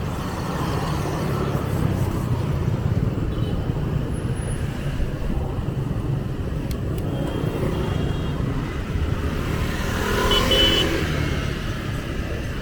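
Street traffic: a steady mix of passing vehicle engines and road noise, with a short higher-pitched sound about ten seconds in.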